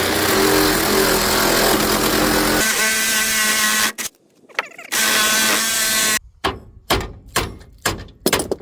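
Reciprocating saw (Sawzall) cutting through a rusted-in subframe bolt. It runs loudly with a steady motor tone, stops about four seconds in, runs again a second later, then gives a string of short bursts near the end.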